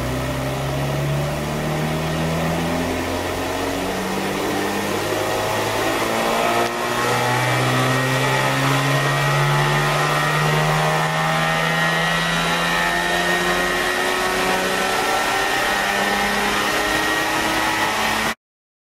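Lexus IS200's 2.0-litre straight-six pulling at full throttle in fourth gear on a chassis dyno, its pitch rising steadily from about 1,300 to about 4,400 rpm. The electric supercharger in the intake is fitted but not running, so the engine is breathing naturally aspirated. The sound cuts off suddenly near the end.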